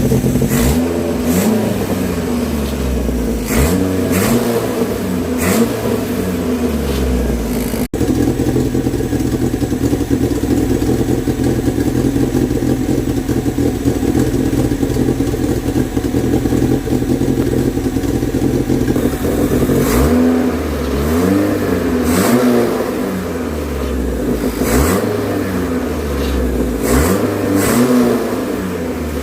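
Freshly rebuilt Renault 16 TX four-cylinder engine running: a series of quick throttle blips, each rev rising and falling, then a steady idle for about eleven seconds, then more blips near the end.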